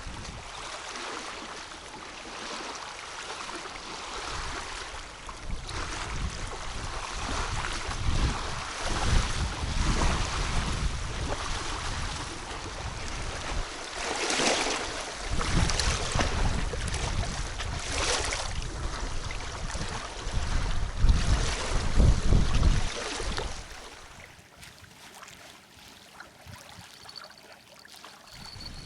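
Wind gusting over the microphone, with repeated rumbling buffets and hissing gusts that rise and fall; it drops away abruptly to a much quieter stretch near the end.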